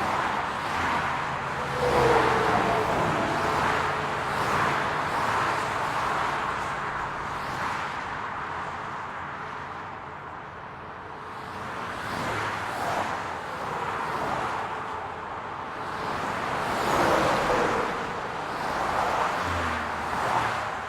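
Road traffic: cars passing one after another over a steady hum of tyre and engine noise, swelling and fading. The loudest passes come about two seconds in and again near seventeen seconds, each with a faint falling tone as it goes by.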